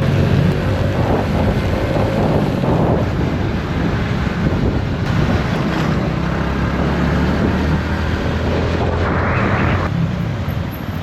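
Motorcycle engine running steadily under way, with wind rushing over the microphone. A brief hiss cuts in near the end.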